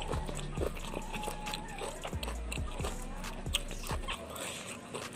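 A person chewing food close to the microphone, with a quick, irregular run of wet mouth smacks and clicks.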